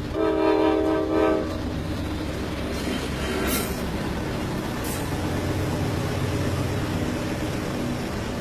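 Diesel locomotive horn sounding one chord blast of about a second and a half, then the train's GE Dash 9-44CW and EMD SD70M diesel engines rumbling steadily as it pulls away from a stop. Two short hisses come a few seconds in.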